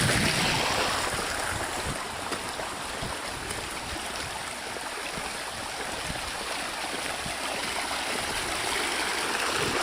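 Rainwater runoff flowing steadily over the ground.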